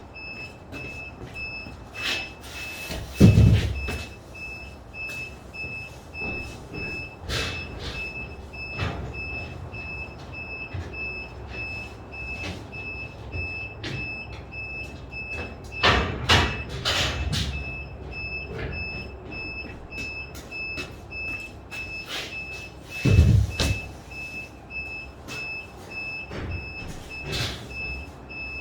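Construction site background: a high electronic beeper repeats in quick, even beeps over a rumbling din, with loud knocks or thuds about three seconds in, around sixteen to seventeen seconds, and about twenty-three seconds in.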